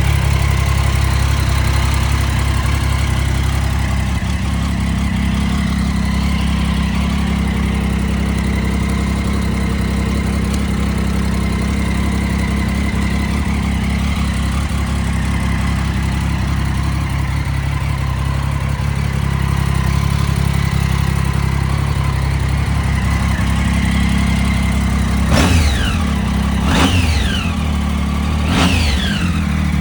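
Triumph Daytona 675's three-cylinder engine idling steadily, then revved in three quick throttle blips near the end, each one dropping back to idle.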